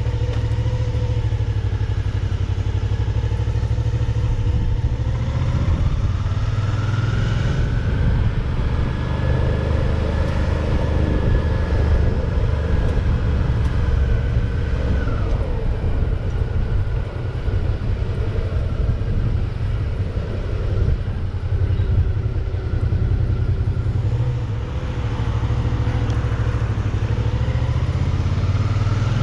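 Suzuki V-Strom 650's V-twin engine running steadily while the motorcycle is ridden, its pitch rising gently about a quarter of the way in and easing back down about halfway through.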